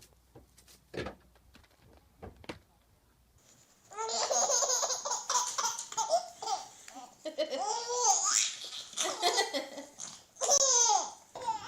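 A baby laughing in repeated bursts. The laughing starts about four seconds in, after a few faint clicks.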